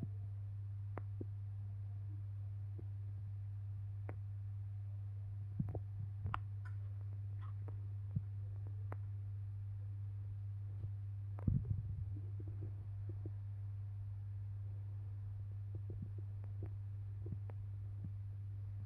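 A steady low hum throughout, with scattered faint clicks and knocks and a brief cluster of louder knocks about halfway through.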